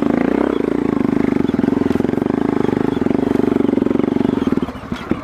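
Trail motorcycle engine running steadily on the throttle, then easing off near the end to a slower, lumpier beat.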